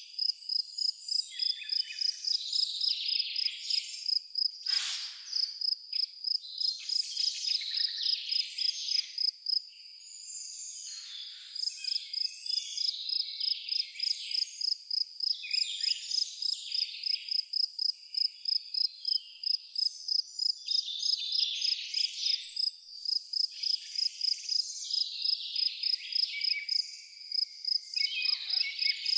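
Insect chirping in a steady high pulsed rhythm, about four pulses a second, which pauses briefly about a third of the way in, with varied bird calls over it.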